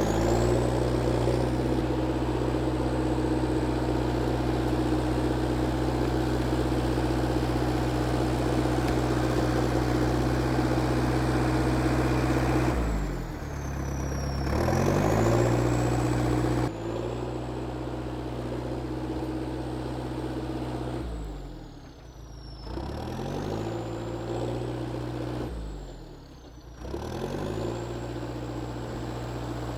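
IH TD8E bulldozer's diesel engine running steadily with a high whine above it. Three times, about a third of the way in, two-thirds in and near the end, the engine speed drops sharply and quickly climbs back.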